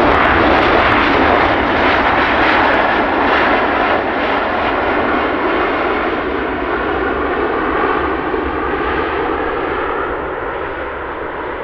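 Jet engine noise from an arriving Boeing 737-800 airliner: a steady, dense rush that slowly grows quieter as the jet moves away.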